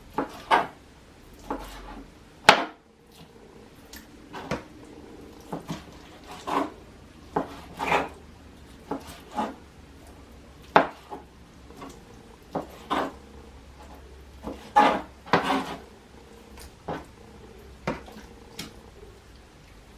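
Kitchen knife cutting raw chicken breast into bite-sized chunks: irregular sharp knocks and clicks of the blade, roughly one a second.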